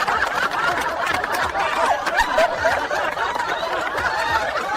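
A crowd of people laughing together, many overlapping voices, keeping on steadily.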